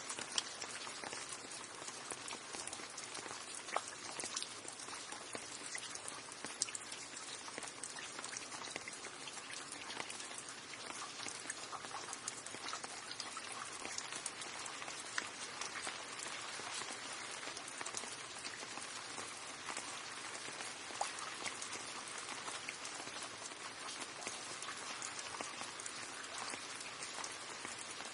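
Steady rain with many separate drops ticking and pattering on a hard surface.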